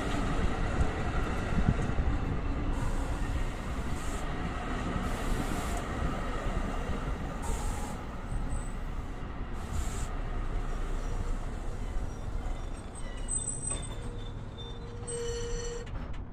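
NJ Transit commuter train running on the tracks with a steady rumble, broken by a few short high hisses, and a high-pitched squeal of wheels or brakes near the end.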